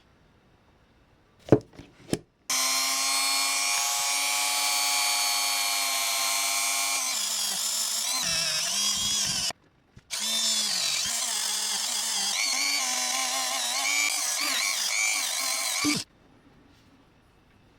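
A small high-speed electric motor, such as a rotary power tool, runs in two spells of about seven and six seconds, starting and stopping abruptly. It gives a steady hum under a high whine whose pitch wavers, most of all in the second spell. A few clicks come just before it starts.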